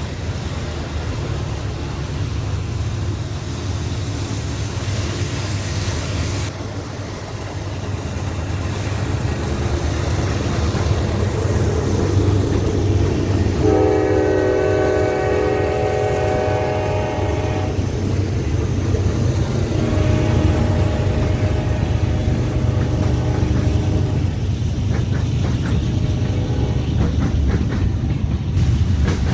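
Train going by with a steady deep locomotive rumble. The locomotive's multi-chime horn sounds one long blast about halfway through, then a fainter blast a few seconds later.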